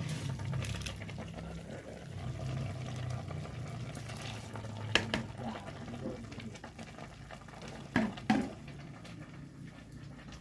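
Water bubbling in a cooking pot over a steady low hum, with three sharp knocks, one about five seconds in and two close together near eight seconds.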